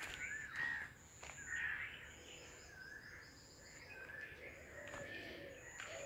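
Birds singing: wavering, warbling phrases with short, thin high notes repeated about once a second. A few sharp clicks sound over them.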